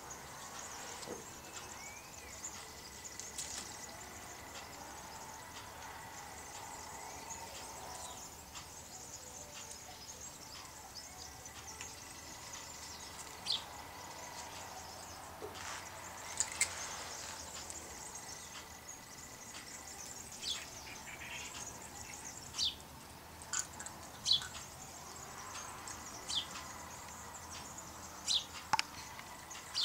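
Songbirds giving scattered short, high chirps that sweep downward, more frequent in the second half, over a steady background hiss.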